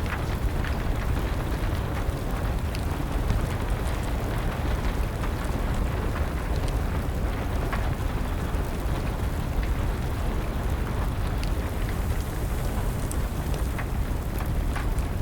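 Steady rain hiss with a low rumble, over which a wood fire crackles and pops in scattered sharp clicks.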